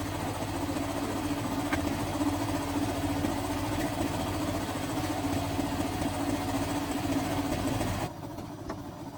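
An engine running steadily at idle, a constant hum over a low rumble. About eight seconds in the sound drops abruptly and goes duller.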